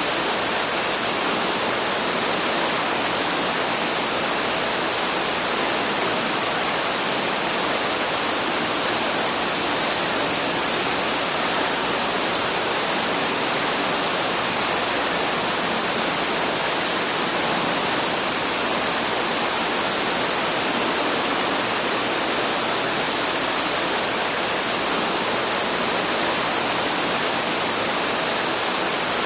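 Waterfall: falling water rushing in a steady, unchanging hiss, bright rather than deep.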